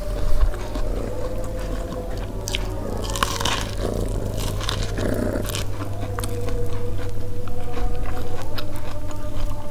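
Close-up biting and chewing of steamed corn on the cob: kernels being bitten off the cob and chewed, with many small crisp clicks, over a steady low hum.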